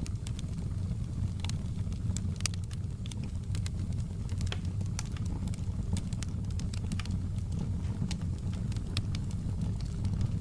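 Wood fire burning in a fireplace, sharp irregular crackles and pops over a steady low rumble of the flames.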